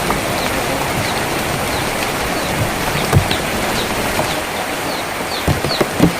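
Steady rain falling on a tin roof, with a few heavier drops knocking in the second half. A bird chirps in short falling notes over the rain from about halfway through.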